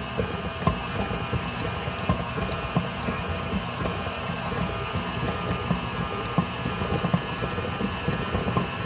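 Electric stand mixer running steadily at speed, mixing brownie batter, with a constant motor whine and light clicking; very loud.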